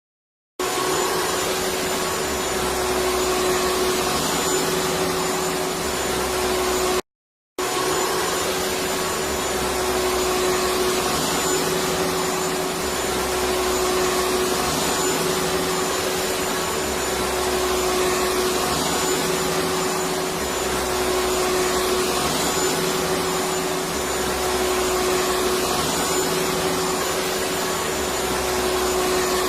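Electric vacuum cleaner running steadily: an even rushing noise with a constant motor hum. It cuts out completely for about half a second around seven seconds in, then carries on unchanged.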